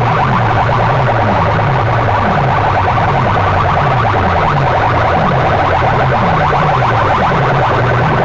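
Very loud, saturated electronic siren-like track played through DJ sound-box loudspeakers in a sound-system competition. A fast pulsing tone repeats in the middle, and a falling low sweep comes about once a second, with no let-up.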